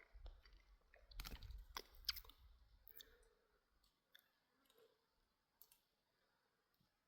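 Near silence with scattered faint clicks and taps, most of them in the first two or three seconds, over a faint low rumble that dies away about four seconds in.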